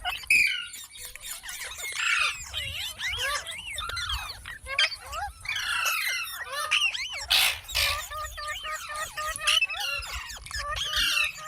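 Indian ringneck parakeet chattering: a dense, unbroken run of quick high chirps, squeals and squawks that glide up and down in pitch, with a short noisy burst about seven seconds in.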